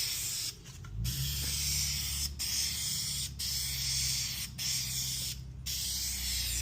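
Aerosol spray paint can hissing in a series of spray passes, with brief breaks between them. A low steady hum runs underneath from about a second in.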